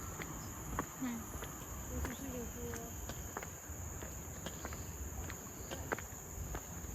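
A steady high-pitched drone of insects in forest, with the walker's footsteps clicking about once a second. Faint voices are heard in the first few seconds.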